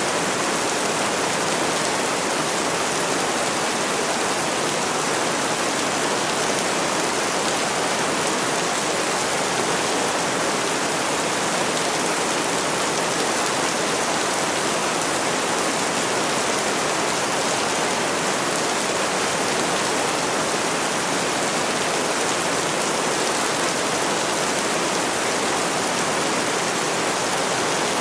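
Steady heavy rainfall, an even continuous hiss with no thunder and no single drops standing out.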